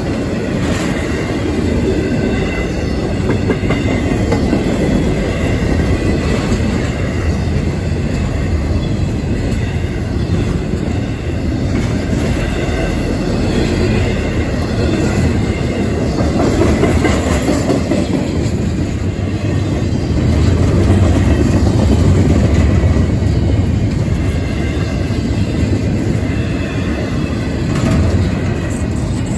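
CSX intermodal freight train of container and trailer cars rolling steadily past at close range: a continuous rumble of steel wheels on rail, getting a little louder about two-thirds of the way through.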